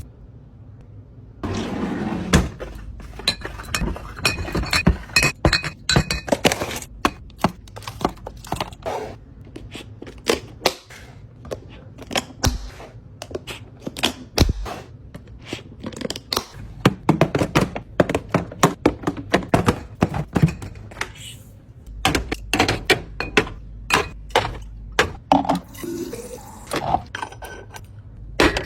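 Containers, jars and bottles being set down and shuffled while a fridge is restocked, making a dense run of irregular knocks, taps and clinks.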